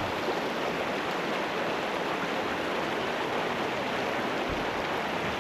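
Steady rush of flowing water, like a fast stream or waterfall.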